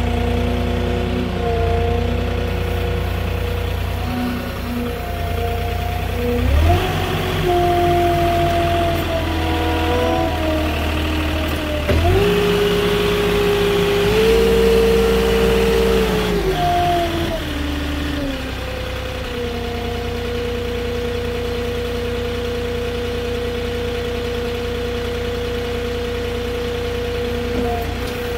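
Forklift engine running, revving up about six seconds in and again about twelve seconds in, then dropping back to a steady idle after about nineteen seconds.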